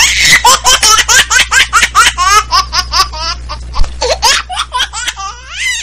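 High-pitched laughter: a rapid string of short ha-ha syllables, about five a second, trailing off near the end.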